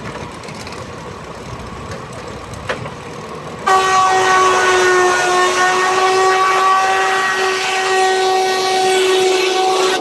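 Steam traction engine's whistle blowing one long steady blast with a hiss of escaping steam, starting suddenly a little under four seconds in. Before it, low steady machinery running.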